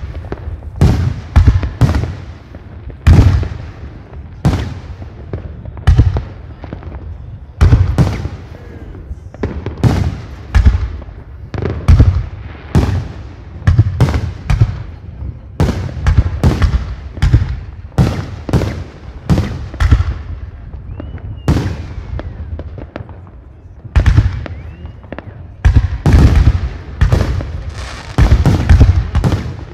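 Aerial fireworks display: shells bursting in a steady, irregular series of sharp bangs, about one a second, each ringing on and fading. The bangs come thicker and overlap in the last few seconds.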